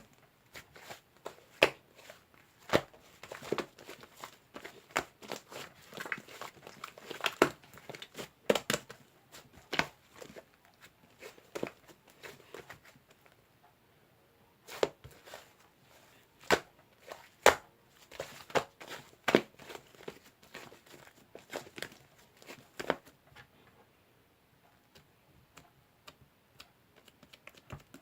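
Fluffy slime-clay being squeezed and stretched by hand, giving irregular sharp clicks and crackling pops, with a few short quieter gaps.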